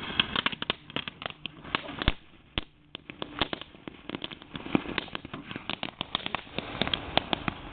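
Metal wires sparking inside a running microwave oven: dense, irregular crackling and snapping from the arcing, easing off briefly about two and a half seconds in.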